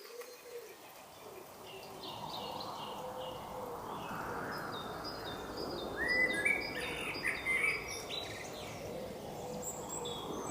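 Small birds chirping and calling, many short high notes, over a steady background hiss; the calls are loudest and most crowded about six seconds in.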